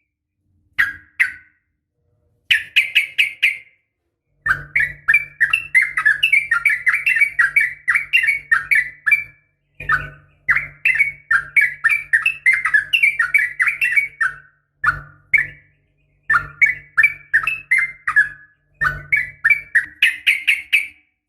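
A female sooty-headed bulbul's (trucukan's) calls, offered as a breeding-condition call to lure males: runs of quick, chattering notes in phrases lasting from under a second to about five seconds, with short gaps between them.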